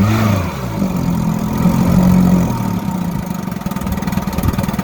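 1956 Evinrude Fastwin 15 hp two-cylinder two-stroke outboard running in a test tank. Its pitch rises and falls briefly at first, then holds steady. After about two and a half seconds it turns quieter, as if throttled back.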